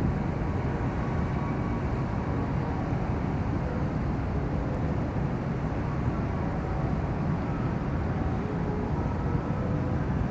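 Large car ferry's engines and hull rumbling steadily as the ship gets under way, with a few faint steady tones over the low rumble.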